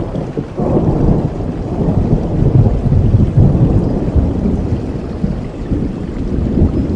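A long roll of thunder over steady rain. The low rumble builds about half a second in, is loudest around the middle, and slowly dies away.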